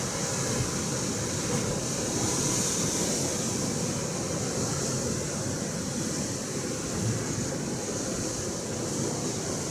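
Atlantic Ocean surf washing against the shore: a steady low rumble with a hiss that swells and fades as waves come in.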